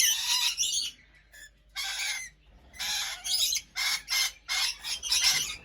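Rainbow lorikeets squawking: a string of short, harsh, high-pitched calls. There is a pause about a second in, then a quick run of calls through the second half.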